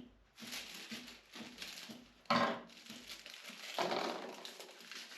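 A packet of flower bulbs rustling and crinkling as it is handled, in a series of uneven scrunches with a sharper crinkle about two seconds in.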